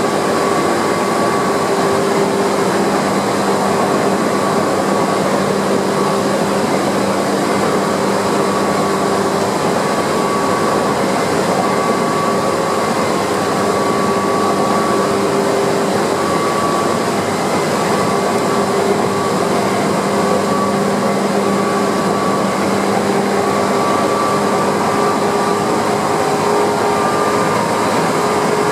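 Tokyu 8500 series electric train running at speed, heard from inside the front of the car: steady running noise with several faint, steady tones over it.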